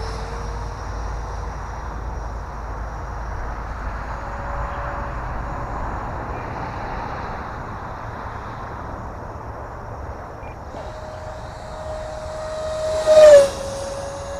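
E-flite F-15 Eagle 64 mm electric ducted-fan jet in flight, a steady rushing whine from its 12-bladed fan. About 13 seconds in it makes a close, loud pass, the whine dropping in pitch as it goes by.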